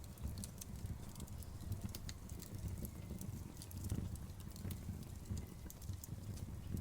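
Crackling campfire: frequent small sharp pops and snaps of burning wood over a low, steady rumble.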